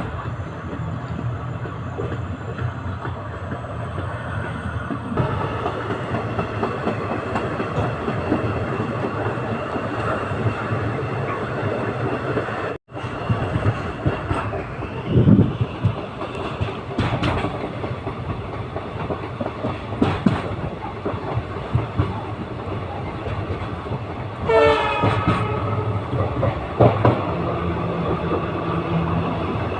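Indian Railways express passenger coach running on the track: a steady rumble with clickety-clack of the wheels over rail joints and occasional knocks. A short horn blast sounds about 25 seconds in, and the sound cuts out for an instant about 13 seconds in.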